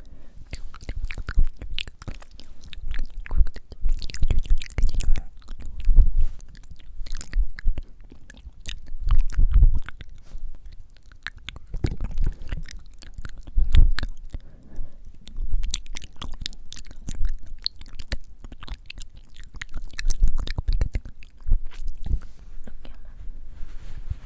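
Close-up moist mouth sounds for ASMR: many quick wet clicks and smacks of tongue and lips, with unintelligible whispering and breath blowing on the microphone, which gives repeated low thumps.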